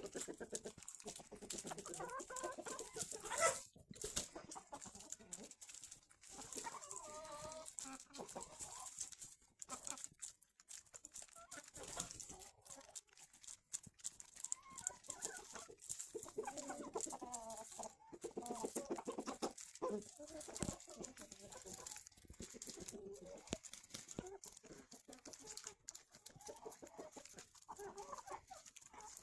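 Chickens clucking on and off while they feed, with many small ticks and pecking sounds between the calls.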